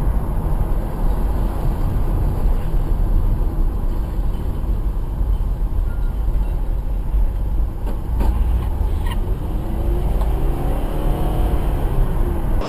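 A car driving, with steady low road and engine rumble.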